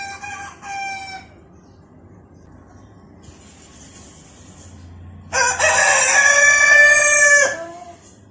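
Red local rooster crowing: a short two-part call right at the start, then one loud full crow about two seconds long beginning a little past halfway.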